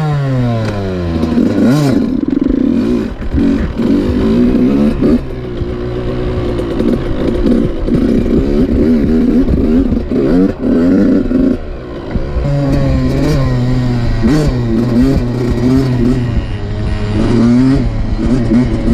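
Dirt bike engine revving up and down as it is ridden, its pitch climbing under throttle and falling off again over and over.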